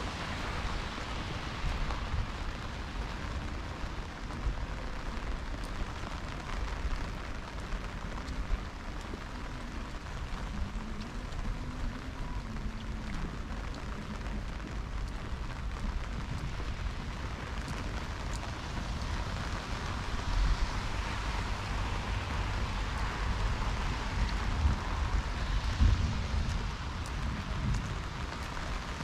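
Steady rain falling on street surfaces, an even hiss of drops, with a low rumble underneath.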